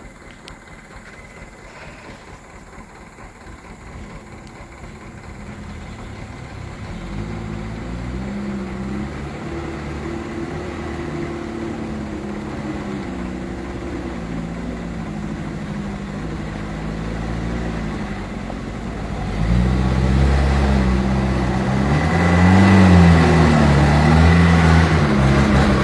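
Mitsubishi Canter dump truck's diesel engine labouring under load, its revs rising and falling. It grows gradually from faint, then steps up much louder about two-thirds of the way through as the driver revs harder.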